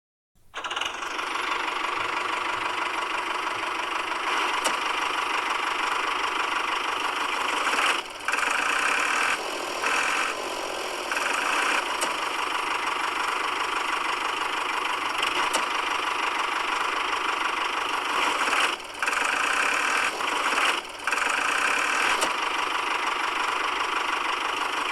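A small motor running steadily with a high, buzzing note, briefly changing pitch or dropping a few times.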